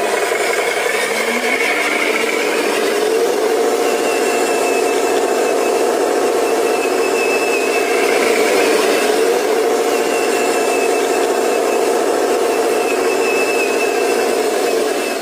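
An engine running steadily, with a faint, thin, whining tone above it.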